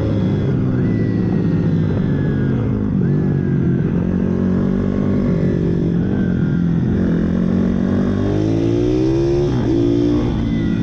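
Several pit bike engines running at once and revving, their pitches overlapping. One climbs steadily in pitch about eight seconds in, then drops back.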